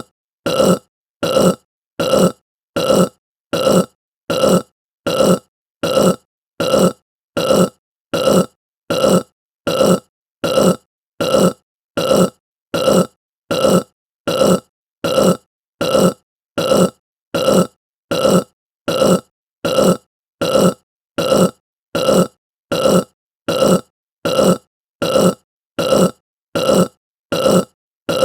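A person's short burp, the same burp repeated over and over at an even pace, a little more than one a second.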